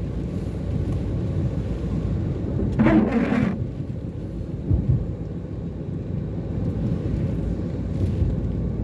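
Steady low rumble of a car driving on a rain-wet road, with one brief louder sound about three seconds in.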